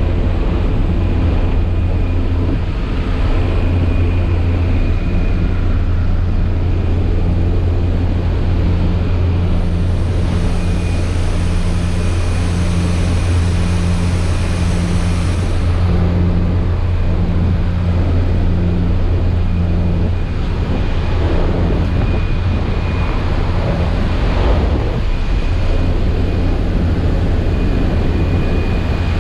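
Caterpillar D-series crawler dozer's diesel engine running steadily with a loud low drone. A high hiss joins for several seconds midway.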